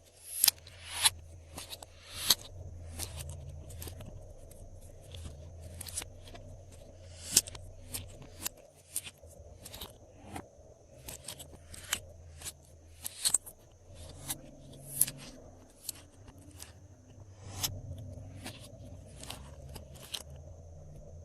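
Glossy slime being worked by hand, giving irregular sticky clicks and pops, several a second, some much louder than others, over a low steady hum.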